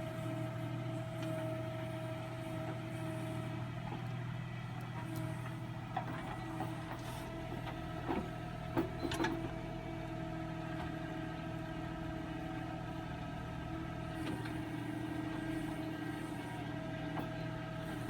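Tractor's diesel engine running at a steady speed, with a few short knocks about six and nine seconds in.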